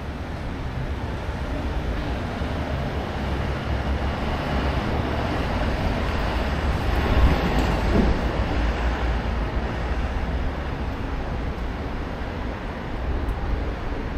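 A train passing by, its rumble building to a peak about halfway through and then fading.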